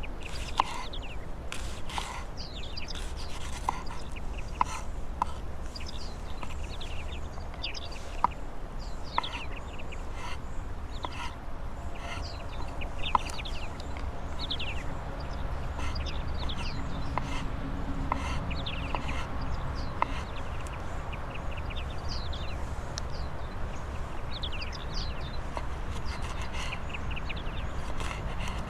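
Birds chirping throughout in short, quick downward-sweeping calls, with scattered sharp clicks and knocks over a steady low rumble.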